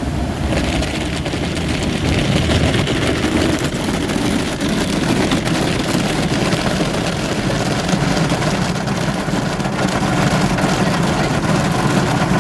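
Automatic car wash running over a car, heard from inside the cabin: a steady rush of water spray and spinning brushes against the body over a low hum, growing louder about half a second in.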